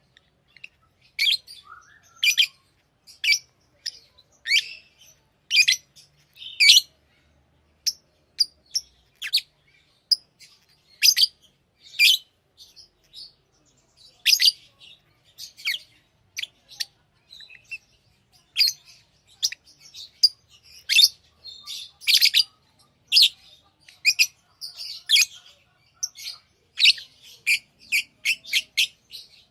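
Lovebirds chirping: short, high-pitched chirps at an irregular pace, sometimes several in quick succession, with brief pauses between.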